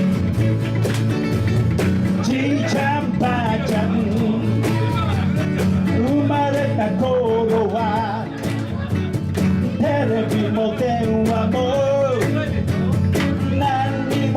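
Live band music: an instrumental break with guitar over a steady beat, and a wavering lead melody line coming in about two seconds in.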